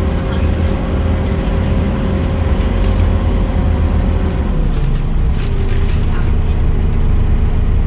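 Scania Omnicity bus running, a steady low engine rumble with a whine above it. About four and a half seconds in, the whine drops away and the engine note shifts lower.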